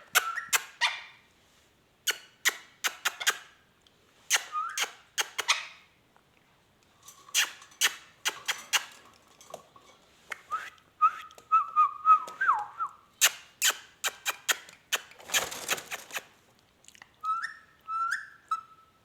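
Indian ringneck parrot making bursts of sharp clicking chatter mixed with short whistles. One whistle warbles and wavers for a couple of seconds near the middle.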